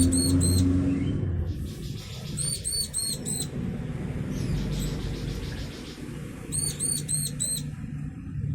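Bar-winged prinia (ciblek) calling from the breeding cage: three bursts of rapid, high-pitched chirping notes, each about a second long, with fainter chirps between them. A low engine hum fades out in the first second or so.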